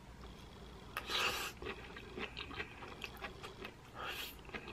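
Close-up eating of lightly sautéed zucchini noodles in pesto. A short slurp about a second in, then soft crunchy chewing with many small clicks, and another brief hiss near the end.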